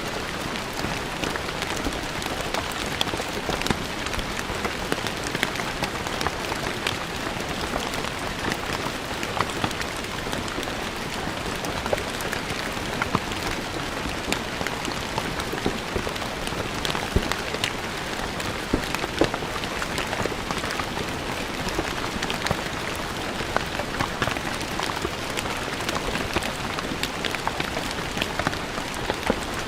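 Steady rain falling on stone ground, a dense even patter with many sharp individual drop splashes.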